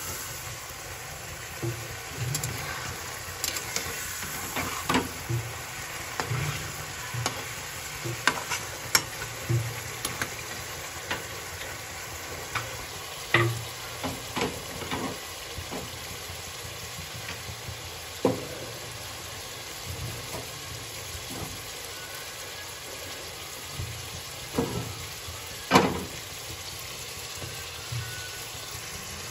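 Paneer cubes sizzling as they fry in oil in a kadhai, the oil mixed with water the paneer has let out. A flat steel spatula stirs the cubes and scrapes the pan, making sharp, irregular clacks, the loudest near the end.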